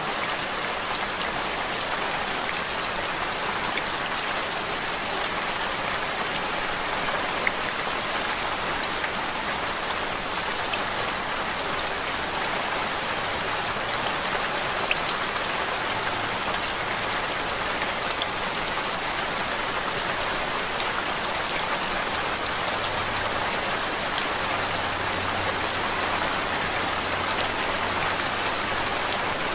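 Steady rain: an even, unbroken hiss with scattered drop ticks.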